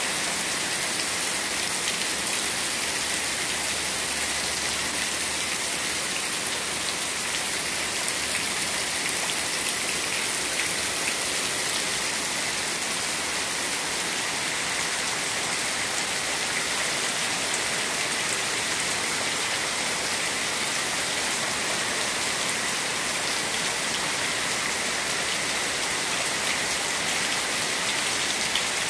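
Heavy rain pouring steadily onto a flooded concrete yard, a dense, even hiss that does not let up.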